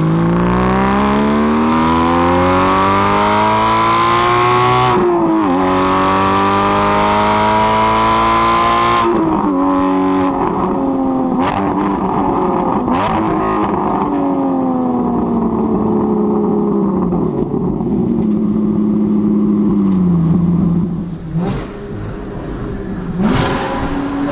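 Porsche Cayman GT4 flat-six with a Fabspeed race exhaust accelerating hard. Its pitch climbs through a gear, shifts up about five seconds in, climbs again and shifts near nine seconds. Then the revs fall off with a few sharp exhaust cracks and a short blip of the throttle near the end.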